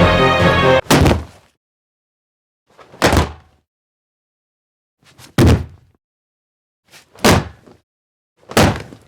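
Music cuts off a little under a second in, then five single firework bursts follow, about two seconds apart: short dry booms, each dying away quickly. These are sound-library firework effects.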